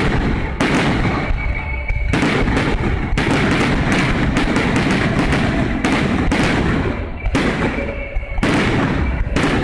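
Fireworks display: a dense, continuous barrage of bangs and crackles from aerial shells bursting overhead, with hardly a gap between them.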